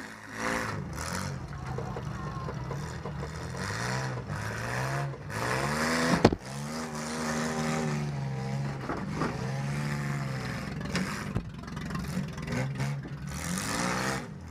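Minivan engine revving up and down repeatedly, heard from inside the cab, with a sharp bang about six seconds in.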